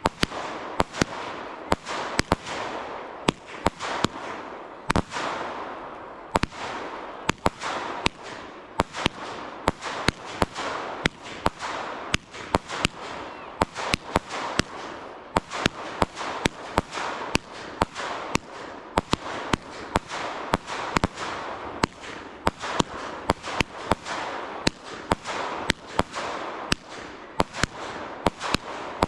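Fireworks going off in quick succession: a steady run of sharp bangs, about two a second, over a continuous hiss.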